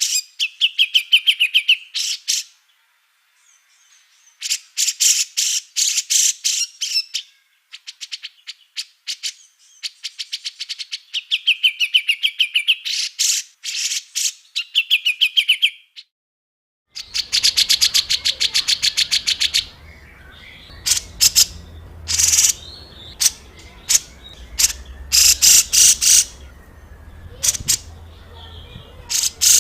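Small songbird's harsh, rapid chattering song, the fast 'rough shot' (tembakan kasar) phrases used as masteran tutor song for competition birds. It comes in bursts of quick sharp notes with short buzzy trills, separated by silent gaps. From about halfway a different recording takes over, with a low background hum under dense chatter and then scattered sharp calls.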